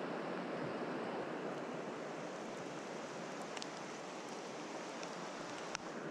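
Mountain stream water rushing steadily, with a couple of short faint clicks, the clearest near the end.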